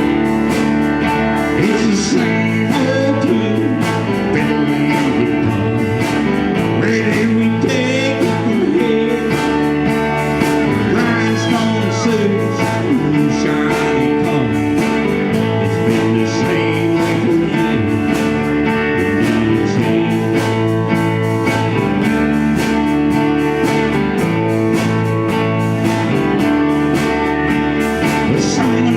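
A small band playing a guitar-led song, the music running steadily at full volume with sustained, bending notes over it.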